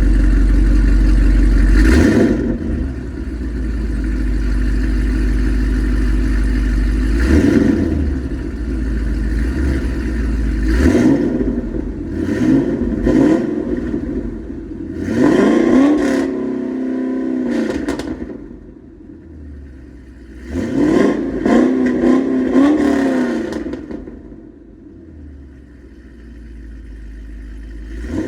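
Chevrolet Camaro ZL1's supercharged 6.2-litre V8 exhaust: a deep idle that is revved several times, the pitch rising and falling with each throttle blip. Sharp cracks from the exhaust come between some of the revs.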